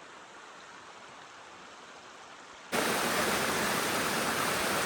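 Steady rushing water, faint at first, then cutting in much louder about two-thirds of the way through.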